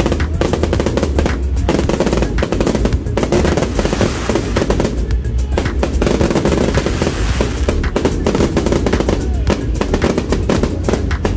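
Fireworks going off in rapid, dense volleys of crackling pops over a steady low rumble, with music playing underneath.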